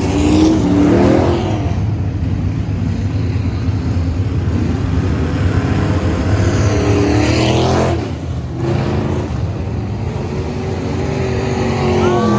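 Pure stock V8 race car engine running hard on the dirt track, revs climbing, briefly backing off about eight seconds in, then pulling up again.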